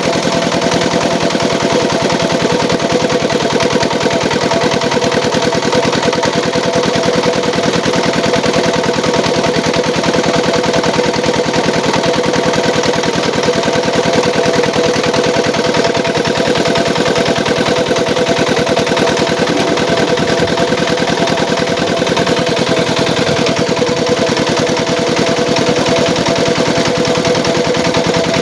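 Engine of a home-built gambir leaf grinding and pressing machine running steadily at a constant speed, with a rapid, even chugging beat.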